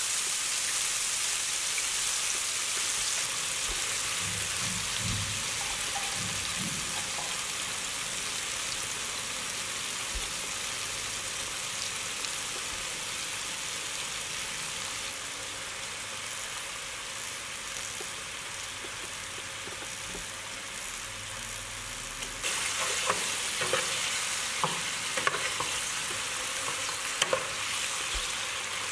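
Broccoli and red chili sizzling in oil in a nonstick frying pan, a steady hiss. About three-quarters of the way through, a wooden spatula starts stirring, adding sharp clicks and knocks against the pan.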